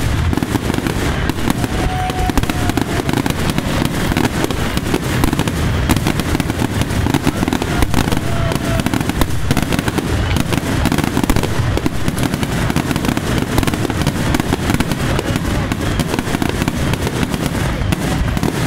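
Fireworks grand finale: many aerial shells bursting in rapid, overlapping succession, a continuous barrage of booms and crackle without a break.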